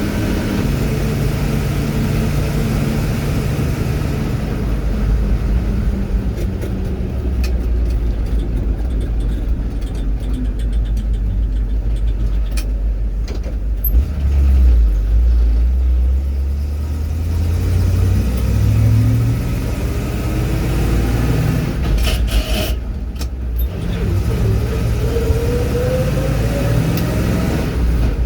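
Vehicle engine running while driving, a steady low rumble whose pitch climbs twice in the second half as it accelerates, with a few sharp clicks a little after the middle.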